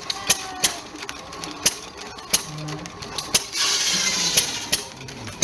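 1920 5 hp Monitor hit-and-miss gas engine running, its exhaust giving sharp pops at uneven intervals as it fires and coasts. A brief rushing hiss comes about three and a half seconds in.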